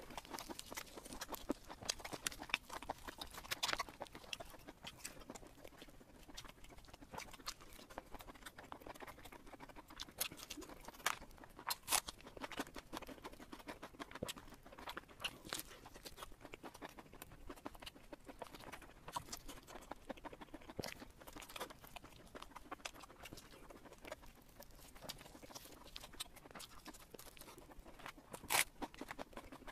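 Close-miked eating sounds: chewing and crunching with wet mouth clicks and smacks, coming irregularly throughout.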